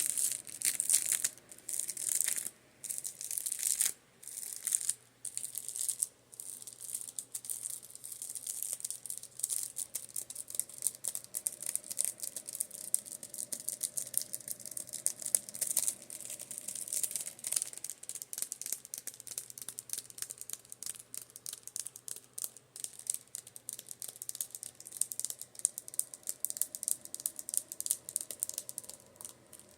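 Makeup brushes being tapped, giving a dense stream of fast, crackly ticks. The ticks come in short bursts with gaps for the first few seconds, then run on continuously. A fan hums faintly underneath.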